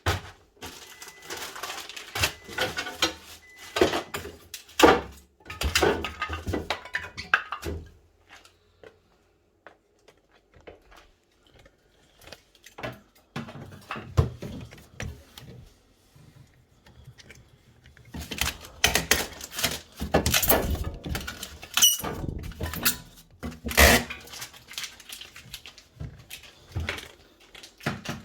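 Irregular clatter, knocks and rustling of plastic fittings and packaging being handled and pulled out of a new fridge freezer during unpacking, with a pause partway through.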